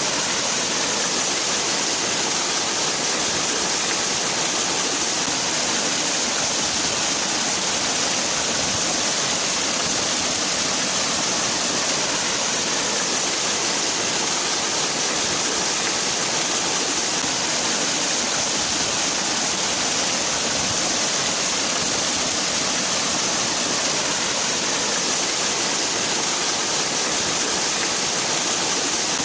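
Waterfall: water falling and splashing in a steady, unbroken rush with a strong hiss.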